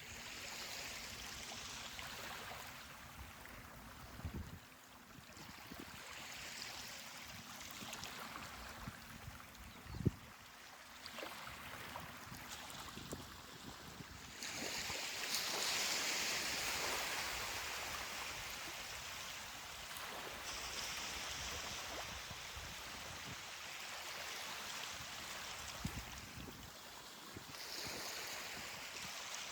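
Ocean waves washing onto a beach, the surf swelling and falling back over several seconds, with a bigger wash about halfway through. A few short low thumps break in, the sharpest about ten seconds in.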